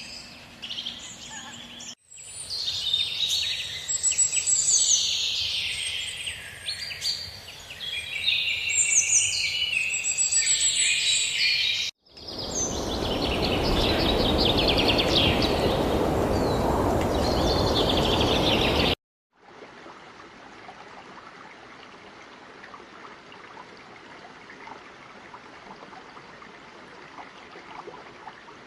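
Edited nature ambience in several cuts: a dense chorus of many birds chirping and singing, then a loud, steady rushing noise with a few bird calls over it, then, from about two-thirds in, a quieter steady hiss.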